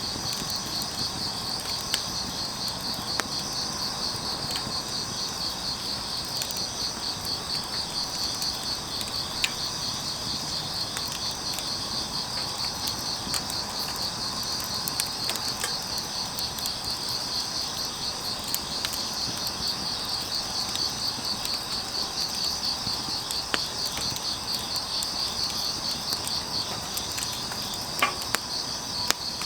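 Crickets chirping in a steady, rapid pulsing trill, with a few sharp pops from crackling firewood now and then, twice close together near the end.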